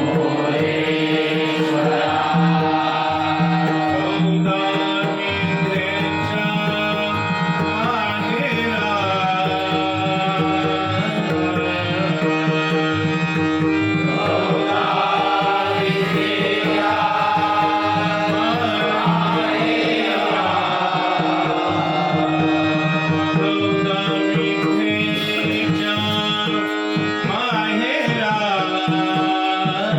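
Devotional bhajan music: a harmonium plays a sustained melody over tabla and pakhawaj drumming, with a singer's voice bending through the phrases.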